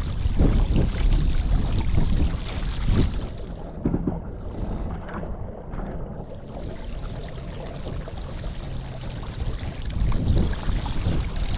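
Gusty wind buffeting the microphone aboard a small sailboat, with the rush of moving air and water. The gusts ease about a third of the way in and pick up again near the end.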